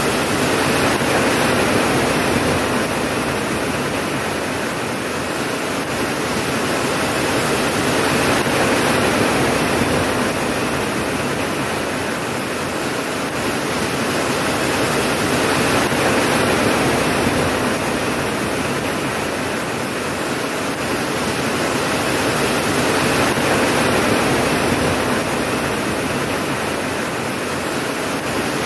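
Rain falling steadily, a dense hiss that swells and eases slowly about every seven or eight seconds.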